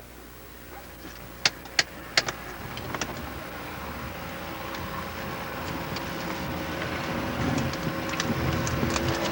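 Piston engine of a light twin-engine aircraft being started after the prop-clear call: three sharp clicks about a second and a half in, then a low engine sound that grows steadily louder.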